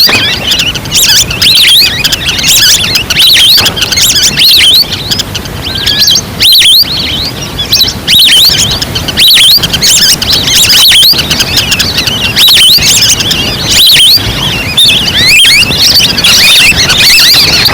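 A recorded flock of wild ducks calling, played back as a hunting lure: a dense, continuous chorus of many short, high chirping calls, overlapping one another and very loud.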